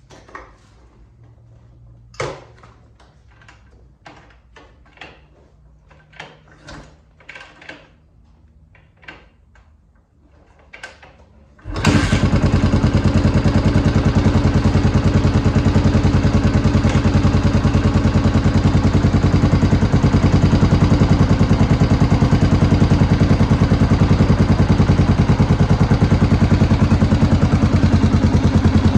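Scattered clicks and knocks, then the Honda XR650R's single-cylinder four-stroke engine with a DG V2 exhaust starts about twelve seconds in and idles steadily and loudly, with fast, even exhaust pulses.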